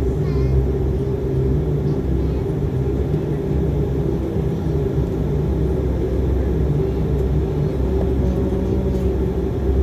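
Steady drone of a De Havilland Canada Dash 8 Q400's turboprop engines and propellers heard inside the passenger cabin, with a constant low rumble and an even hum, holding the same level without a takeoff run-up.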